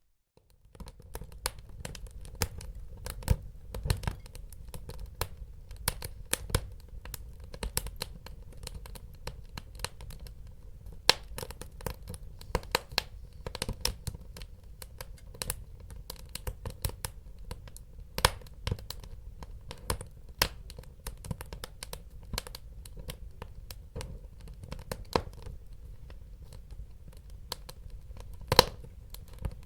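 Wood fire burning in a fireplace, crackling with a steady low rumble and irregular sharp pops, a few of them loud. It cuts in after a moment of near silence.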